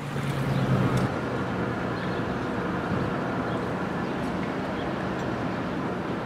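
Train running past: a steady rumbling noise of wheels and cars, with a low engine hum that drops away about a second in.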